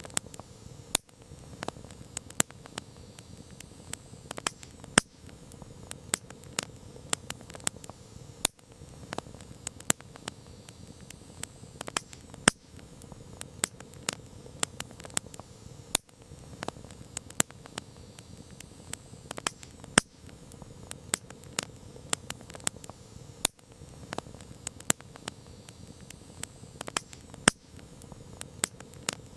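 Campfire crackling steadily: a constant patter of small pops and snaps from the burning wood, with a louder sharp pop every few seconds over a soft low hiss of the flames.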